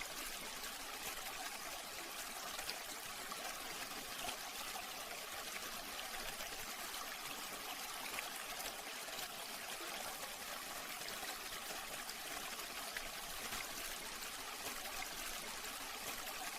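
Small tabletop water fountain running, its water trickling steadily.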